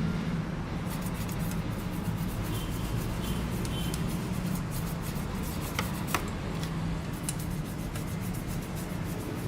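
Toothbrush scrubbing a cola-and-dish-soap mixture over a rusty motorcycle exhaust pipe to lift the rust: steady scratchy brushing with small clicks, and two sharper clicks about six seconds in.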